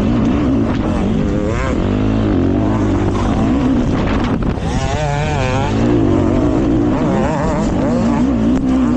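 Honda CRF450RX four-stroke dirt bike engine under varying throttle, the revs rising and falling quickly over and over as it is ridden through turns, with wind buffeting the microphone.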